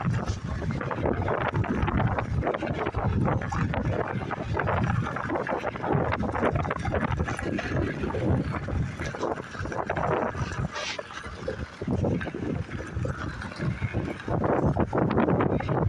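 Wind buffeting and shirt fabric rubbing over a phone microphone carried in a shirt pocket during a bicycle ride: an uneven, shifting noise with no break.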